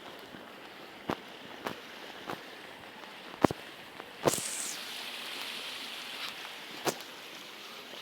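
Footsteps on stony ground: a run of sharp knocks, evenly spaced at first, then irregular. A steady hiss sets in about four seconds in.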